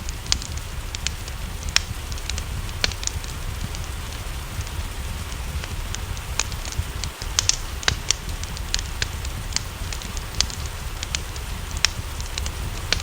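Wood fire crackling, with irregular sharp pops scattered throughout, over a steady wash of rain and a low rumble.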